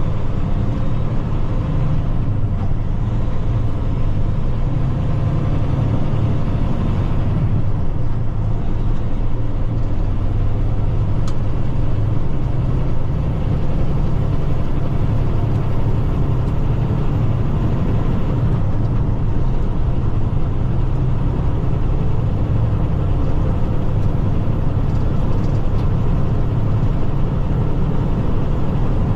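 Tractor-trailer truck cruising on the road, heard from inside the cab: a steady low engine drone with road noise.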